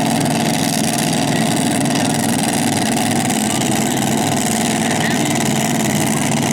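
A mini rod pulling tractor's engine running loud and steady at an even pitch.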